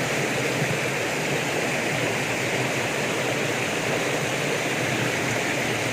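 Karura waterfall and its river rushing: a steady, unbroken hiss of falling and flowing water.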